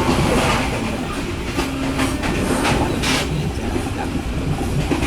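Steady rumble of a moving passenger train heard from inside the coach, with a few sharp clacks from the wheels running over the rails.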